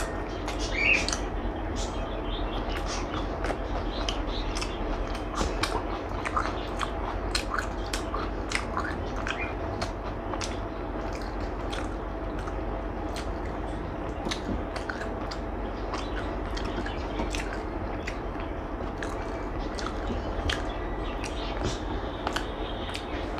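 A person chewing and eating, with many small wet mouth clicks, over a steady low hum.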